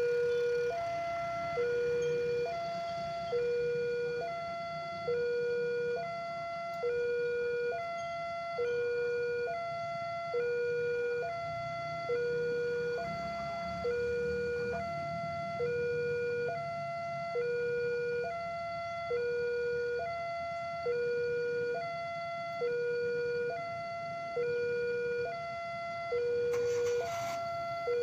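Railway level-crossing warning alarm sounding a steady two-tone low-high signal, about one low-high pair every second and a half, repeating without a break. A faint low rumble lies underneath.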